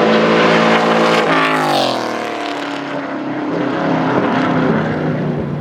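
NASCAR V8 race car engine running at high revs with a steady note, then the pitch drops sharply about a second and a half in, followed by a lower, rougher engine sound.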